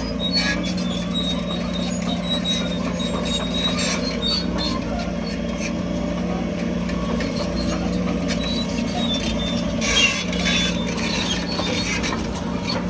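Heavy earthmoving machine's diesel engine running steadily, with scattered metallic clicks and squeaks and a louder knock about ten seconds in.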